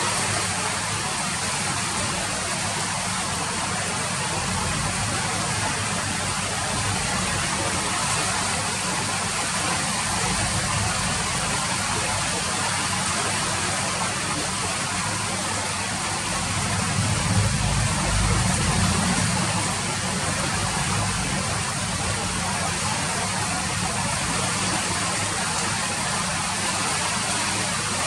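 Steady rain falling, a constant even hiss. A low rumble swells under it for a few seconds a little past the middle, then fades back.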